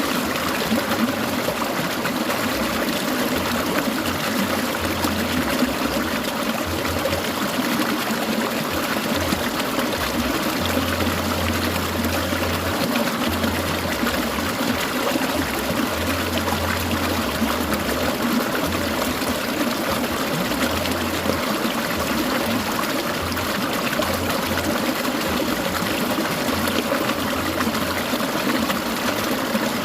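Clear mountain stream gurgling and trickling over rocks, a steady even rush of water.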